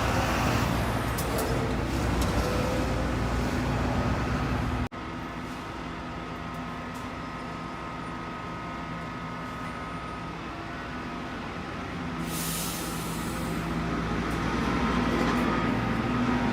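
Street traffic: vehicle engines running steadily, with a short burst of hissing about twelve seconds in. The sound drops suddenly about five seconds in, then builds up again towards the end.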